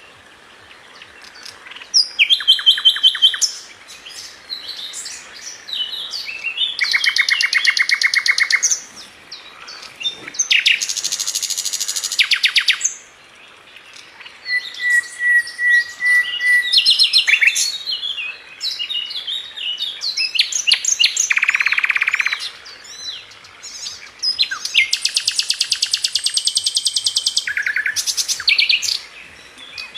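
A songbird sold as "sikatan london", a kind of flycatcher, singing a long run of varied phrases. The phrases are fast trills and rapid chattering notes, each a second or two long, with short pauses between them.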